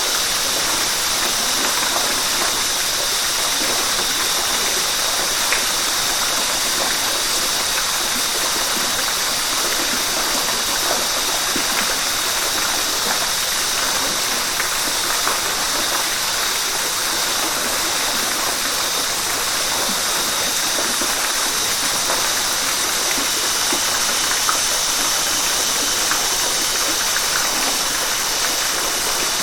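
River water rushing steadily over rocks: an even, unbroken hiss, bright and with little low rumble.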